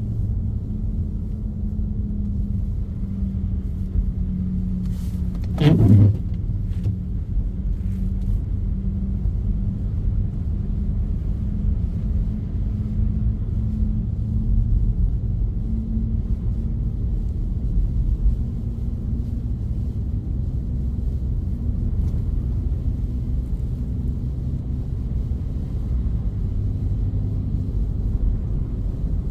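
Car driving through snow: steady engine and road rumble. About six seconds in comes one short, louder sound that drops steeply in pitch.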